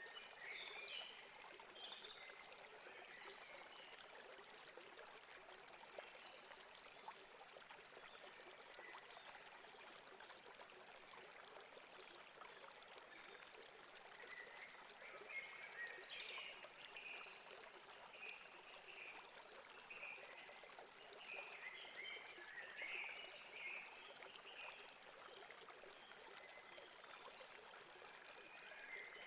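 Faint, steady rush of a river flowing, with birds chirping over it. The chirps come in a cluster in the first few seconds and again in a longer run past the middle.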